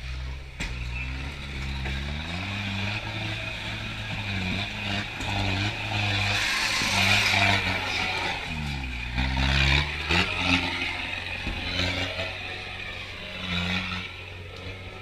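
Kubota turbo diesel engine in a Suzuki Samurai revving up and dropping back repeatedly as the rig crawls off-road. A louder, noisy stretch with clattering comes in the middle.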